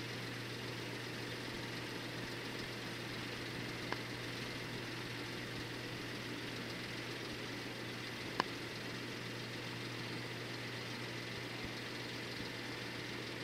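Steady low hum of an idling engine, with two short sharp clicks, about four and eight seconds in.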